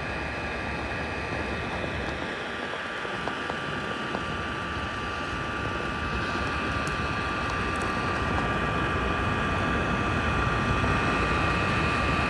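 Roborock Q Revo dock's mop drying blower fan running at speed: a steady whirring rush with a constant high whine, growing slightly louder over the seconds.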